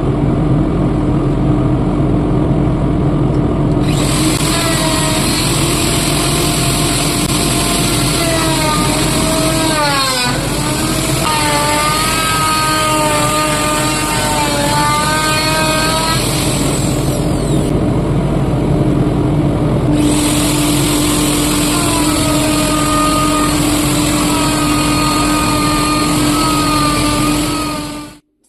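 Electric router running continuously while milling MDF, its motor whine dipping in pitch for a moment about ten seconds in. A higher hiss comes and goes over the steady whine, and the sound cuts off suddenly near the end.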